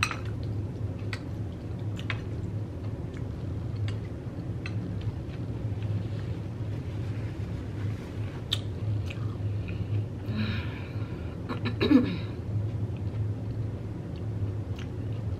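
Close-miked chewing of a mouthful of hot Cheeto taco bowl with nacho cheese, wet mouth clicks scattered through it over a steady low hum. A brief louder throat or mouth sound comes near the end.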